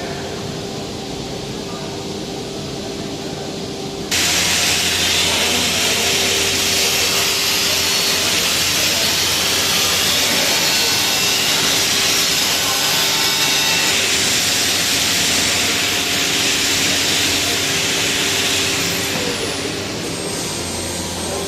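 Angle grinder working the metal of a gas cylinder: a loud grinding hiss that starts suddenly about four seconds in and runs for about fifteen seconds, easing off near the end as the disc winds down, over a steady hum.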